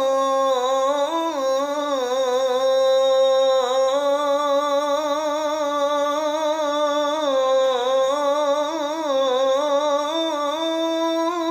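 A male muezzin's solo voice singing the adhan, drawing out the line 'ashhadu an la ilaha illa-llah' in one long unbroken melisma. The pitch turns up and down in quick small ornaments and settles now and then on held notes.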